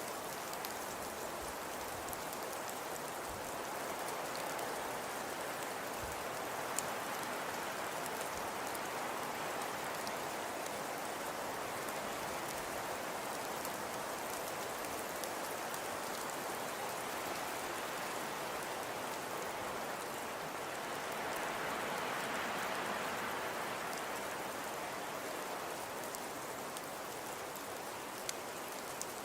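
Fireplace crackling: a steady hiss with many faint, fine crackles, swelling slightly a little past two-thirds of the way through.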